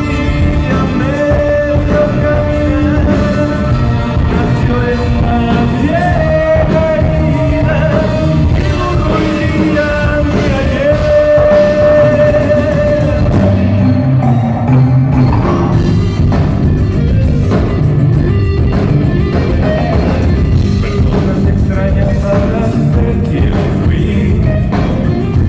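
Rock song with singing and distorted electric guitar.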